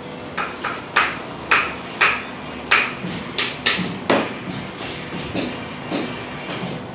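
Hammer strikes on a building site, a run of sharp knocks roughly two a second, each with a brief ringing, turning to lighter taps after about four seconds.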